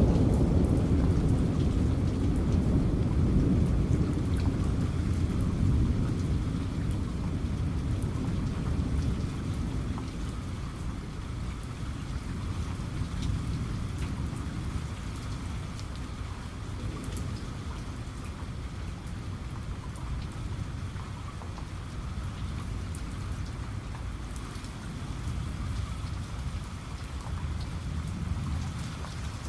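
Steady heavy rain, with a low rumble of thunder dying away over the first ten seconds or so.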